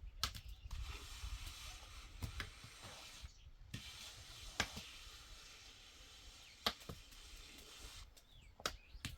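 Five sharp strikes, evenly spaced about two seconds apart, over a steady hiss.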